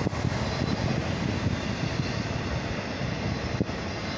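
Steady low rumble of a long double-stack freight train rolling past.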